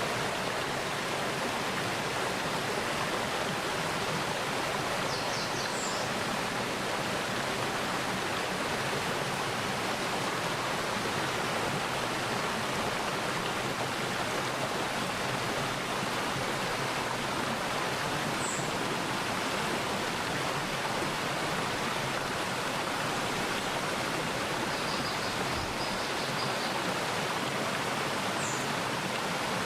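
Mountain stream flowing in a steady, even rush of water. A few short, high bird calls come through now and then.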